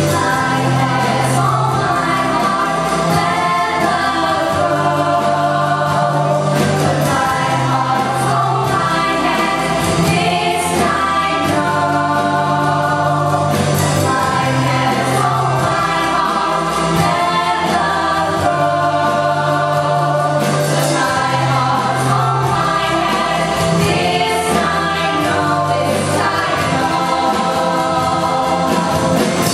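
A group of voices singing together in a choir over instrumental accompaniment, with a bass line moving in long held notes.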